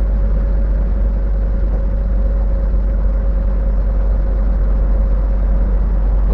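Steady low drone of a semi-truck's engine and road noise heard from inside the cab while driving, with a faint steady whine running through it.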